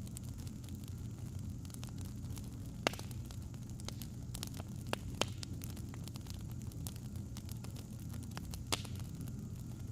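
Wood fire crackling: irregular sharp pops and snaps, a few louder ones about three, five and nine seconds in, over a steady low rumble.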